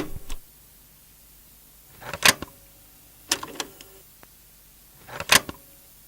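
Four short bursts of clicking and clattering, each a quick run of sharp clicks, about one to two seconds apart.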